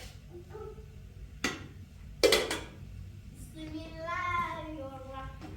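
A sharp click, then a louder clatter of dishes with a short ring, followed by a voice, a child's by the tags, singing or calling in a long, slowly gliding tone over a low steady rumble.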